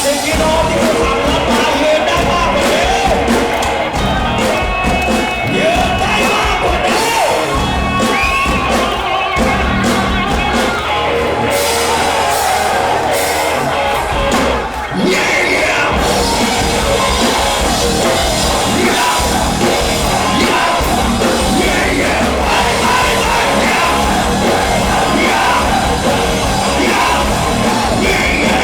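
Live band playing a rock-style song with a vocalist singing over it and the audience yelling along; the bass drops out for a few seconds near the middle, then the full band comes back in.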